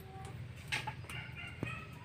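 Faint bird calls over a low background hum, with a couple of sharp clicks.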